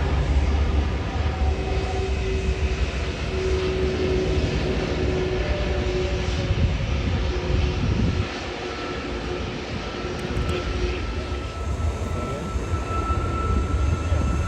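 Jet airliner's engines heard close by, a heavy low rumble with whining tones that slowly fall in pitch as it passes. The rumble drops off suddenly about eight seconds in, then a higher whine builds again near the end.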